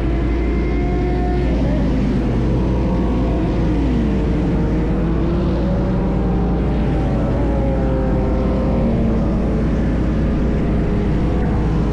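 Ducati motorcycle engine running steadily under way, with a heavy low rumble and its pitch rising and falling as the throttle changes.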